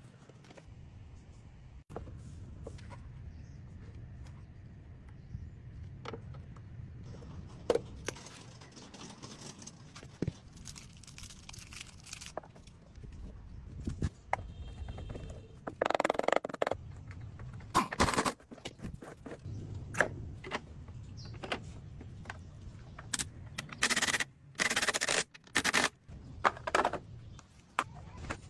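Workshop handling sounds of lawn mower restoration work: scattered clicks, knocks and scrapes of tools and metal parts over a low rumble, with several short loud hissing bursts in the second half.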